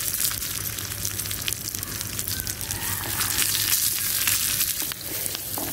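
Chopped onions and mustard seeds sizzling in hot oil in a small clay frying pan, with many fine crackles and pops throughout.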